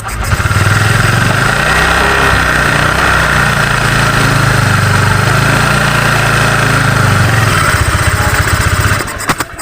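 Honda Vario 125 scooter's single-cylinder engine starting and running steadily with its CVT belt and pulley removed, then shutting off about nine seconds in. It running at all shows the engine now turns freely, with no belt drive on it.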